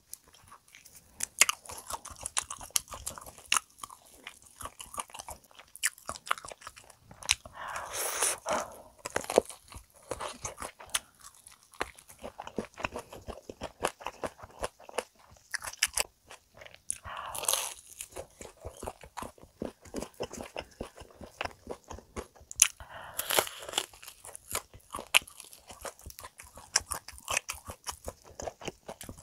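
Close-miked biting and chewing of crispy fried chicken dipped in caramel sauce: a run of sharp crunches from the crispy coating, with a few longer, louder stretches of chewing.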